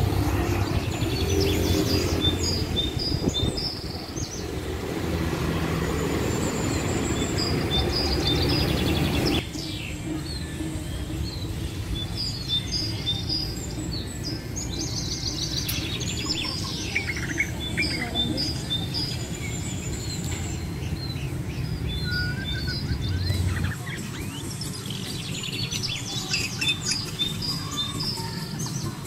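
Birds chirping and singing in short, repeated high phrases over a steady low background rumble.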